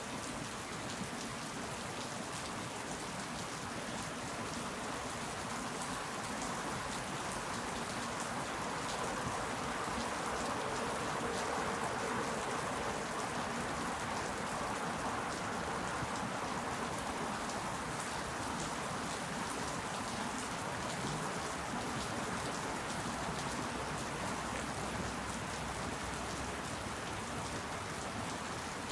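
Steady rain falling, an even hiss with many small drop ticks, swelling slightly in the middle.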